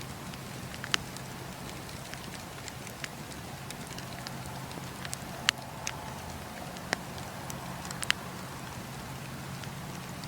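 Campfire burning: a soft steady rush under scattered sharp crackles and pops of the burning wood, the loudest pops about a second in, midway and near the end.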